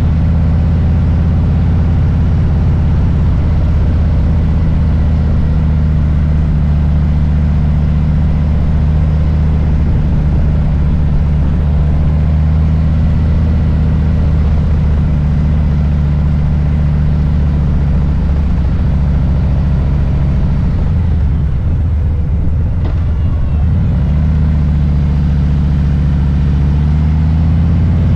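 Harley-Davidson Low Rider S's Milwaukee-Eight V-twin running under way, a steady low rumble. Its note breaks up and shifts for a few seconds about three-quarters of the way through, then settles again.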